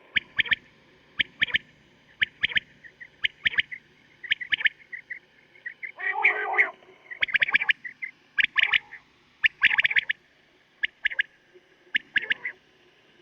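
Male quail (batair) calling over and over: short, sharp, high notes in quick clusters of two or three, about one cluster a second. There is a longer, lower, rougher call about six seconds in and another near the end. It is a recorded quail call played to lure quail for hunting, with a faint steady hum under it.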